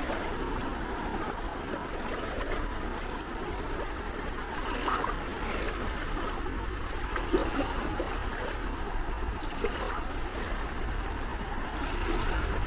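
Gentle sea waves lapping and trickling at the shore, a steady wash of water with small splashes.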